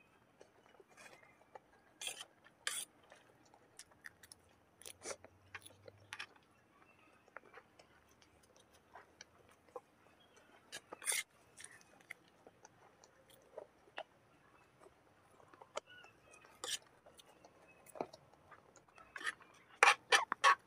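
Close-miked chewing and eating mouth sounds from someone eating rice noodles and chicken by hand: scattered wet smacks and clicks, with a louder cluster of clicks near the end.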